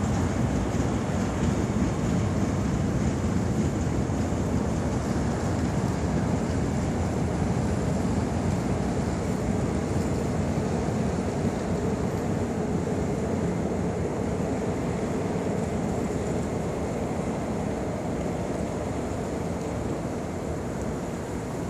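Saemaeul-ho passenger coaches rolling over the rails as the train pulls away from the platform, a steady running noise that slowly fades as it recedes. A faint steady whine rises from the wheels about halfway through.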